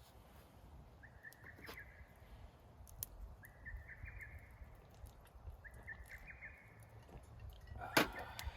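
Japanese bush warbler (uguisu) singing its spring courtship song: four short phrases a couple of seconds apart, each stepping up in pitch. A single sharp knock comes near the end and is the loudest sound.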